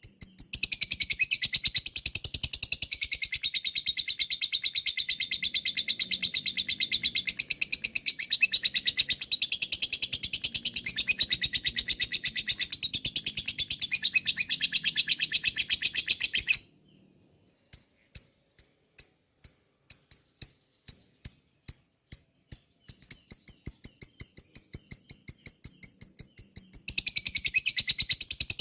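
Lovebird 'ngekek' call: a long, very fast, high-pitched chattering trill. About two-thirds of the way through it breaks off into single sharp chirps, three or four a second, then the fast trill starts again.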